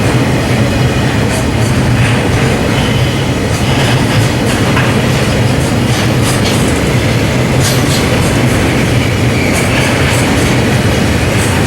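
Train cars rolling along the track: a steady loud rumble with wheels clicking over rail joints every second or two, and some faint wheel squeal.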